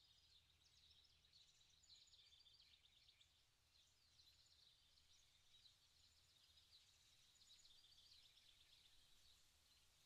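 Very faint birdsong: birds chirping busily with many short, high calls throughout, over a faint low steady hum.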